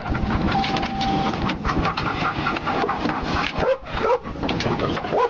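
Engine and road noise inside a pursuing police patrol car, with short rising yelps a few times near the end.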